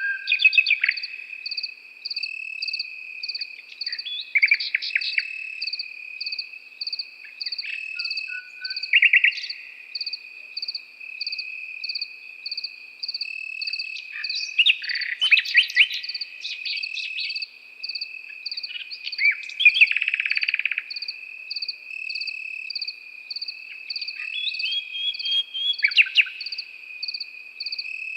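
A nightingale sings short phrases of rapid repeated notes every few seconds over a continuous cricket trill, while a second insect chirps in a steady pulse about twice a second. The bird phrases are the loudest sounds, around halfway through and again a little later.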